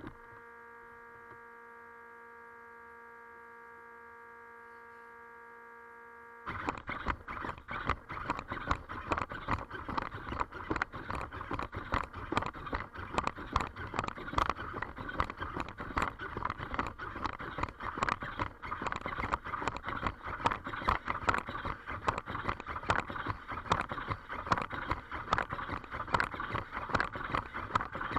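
A steady electrical hum of several even tones, then from about six seconds in a rapid, continuous clatter of clicks and taps.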